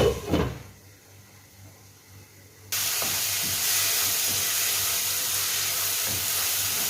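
A lid clanks onto the frying pan, and for a couple of seconds the frying is muffled and quiet. About three seconds in, steady sizzling of the onion-tomato masala cuts in abruptly and holds.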